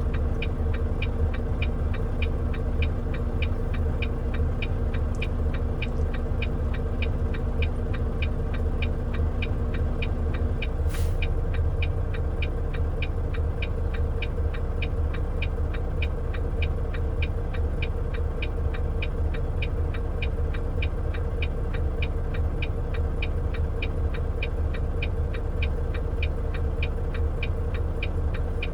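A truck's engine running steadily inside the cab, a low rumble with a steady hum, while the turn signal ticks regularly at about two ticks a second. A brief high sound comes about 11 seconds in.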